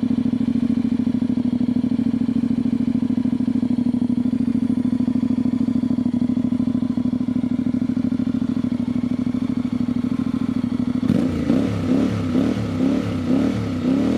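Honda X-ADV's 745 cc parallel-twin idling steadily through a LeoVince Nero slip-on exhaust with the dB killer removed. About eleven seconds in, a series of quick throttle blips revs it up and down several times.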